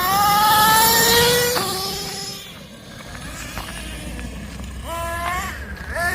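Thunder Tiger MTA4 S28's small nitro engine revving as the RC truck accelerates: a rising whine that climbs for about a second and a half and breaks off, then rises again shortly before the end.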